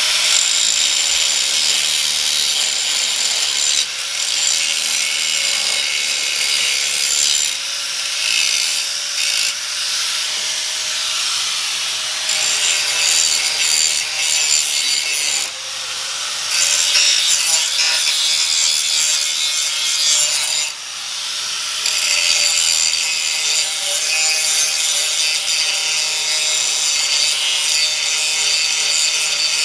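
Angle grinder cleaning up the plasma-cut edge of a steel truck body mount: a steady motor whine under a loud, harsh hiss of the disc on metal, easing off briefly twice, about 16 and 21 seconds in.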